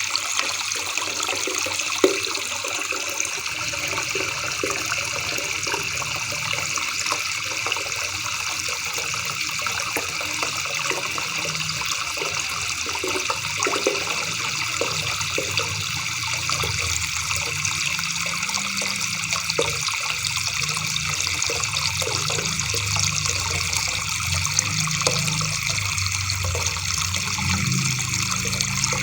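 River water babbling steadily, an even rushing trickle with a low, wavering rumble underneath.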